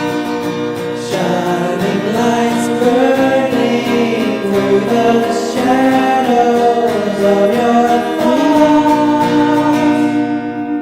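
A song playing: a voice sings a melody over a band with a steady beat, and the high end thins out near the end.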